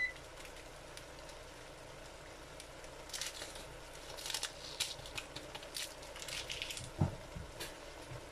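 Sliced mushrooms and onions simmering in their own juices in a pan, a steady sizzle with scattered crackles and pops. A dull knock comes about seven seconds in.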